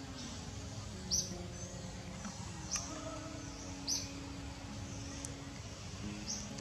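A bird calling: four short, high chirps, each sliding down in pitch, a second or more apart, over a steady low hum.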